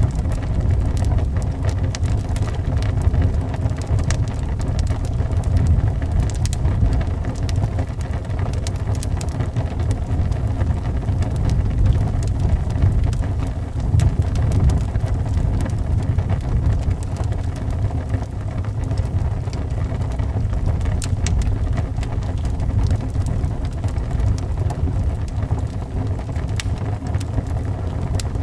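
Wood fire crackling with frequent sharp pops, over a steady low rumble of howling wind and the hiss of rain.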